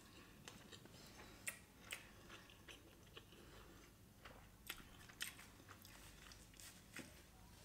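Faint chewing of a mouthful of chicken biryani: soft, scattered clicks from the mouth.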